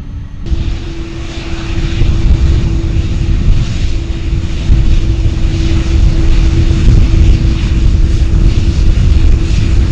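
Aircraft engines running loudly: a steady hum over a deep rumble and hiss that cuts in abruptly about half a second in and grows louder about two seconds in.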